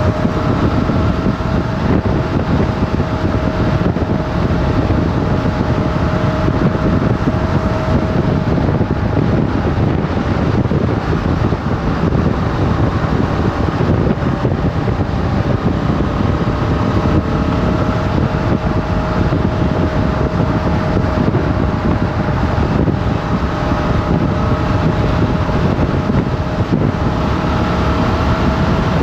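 Motorcycle engine running at a fairly steady cruising speed, its tone rising and falling slightly, under heavy wind rush on the microphone.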